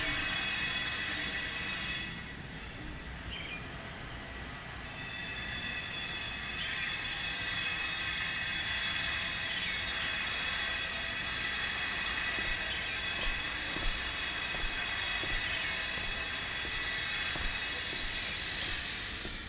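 Power tool grinding stone: a steady high whine with a hiss. It eases off for a few seconds about two seconds in, picks up again, then stops suddenly at the end.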